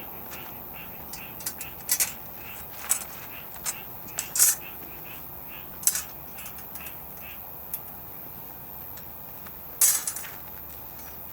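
Frogs calling in a steady pulsing chorus, with a series of sharp clinks and knocks scattered over it. The loudest clinks come about four and a half seconds in and again near ten seconds in.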